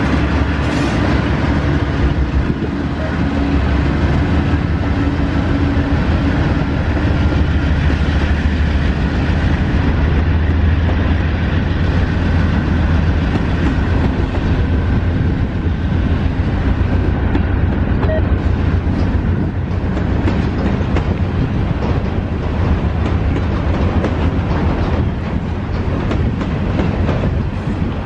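Diesel freight locomotives passing close with their engines running in a steady deep drone, then the freight cars rolling by with a continuous rumble and rapid clicking of wheels over the rail joints.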